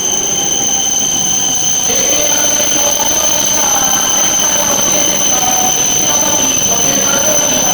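Shinkansen train moving at low speed past the platform, with wheel squeal: wavering whining tones over a steady high-pitched hum.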